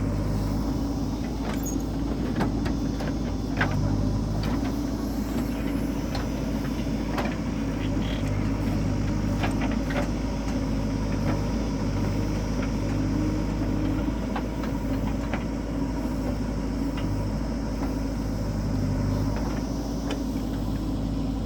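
Diesel engine of a JCB 3DX backhoe loader running steadily, its note shifting every few seconds as the machine works, with scattered short knocks and clanks.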